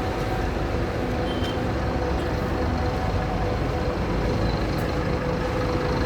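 Scania K310IB bus's rear-mounted diesel engine idling steadily.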